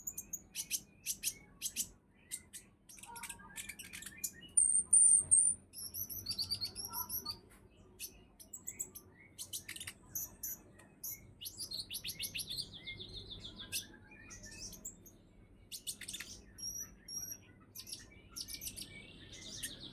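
Olive-backed sunbird singing: a varied run of short high-pitched chirps, clicks and trills, with its loudest phrases about five seconds in.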